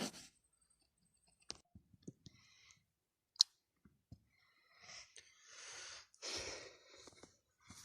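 Handling noise of a few scattered clicks and knocks, the sharpest about three and a half seconds in, then a person's breathy exhales or sighs in the second half.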